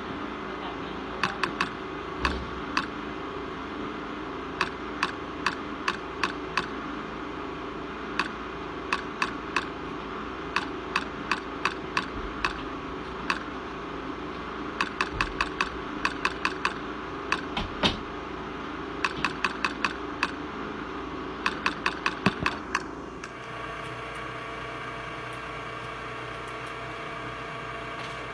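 Jewelry laser welder firing pulses: sharp clicks in quick runs of two to six, over a steady machine hum. After about 23 seconds the clicks stop and the hum changes to a different steady tone.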